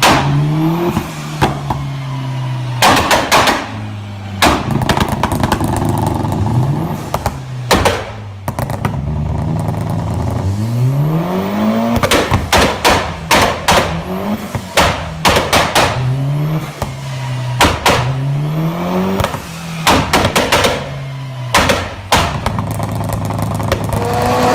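High-performance car engines revving, the pitch sweeping up in repeated short blips between spells of idle. Many sharp pops and bangs come from the exhaust: backfires on the overrun.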